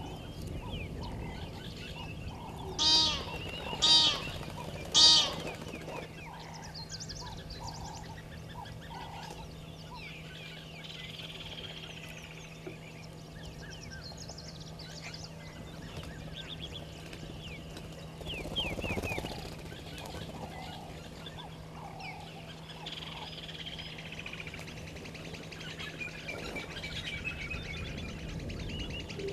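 Wild birds at a waterhole: three loud honking calls about a second apart, a few seconds in, over a steady background of small birds chirping and trilling, with a faint steady hum underneath.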